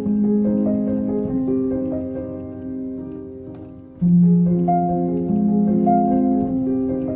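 Background music: a piano playing slow, sustained chords and melody notes, with a new chord struck near the start and another about four seconds in.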